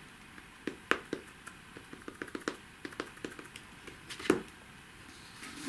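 Light, irregular taps and clicks of an ink pad being dabbed onto a rubber stamp mounted on an acrylic block, with a few louder knocks.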